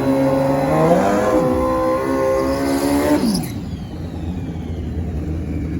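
Drag-racing motorcycles accelerating hard down the strip, their engine pitch dipping and climbing again through gear shifts. About three and a half seconds in, the engine sound falls away suddenly to a low rumble as the bikes run off.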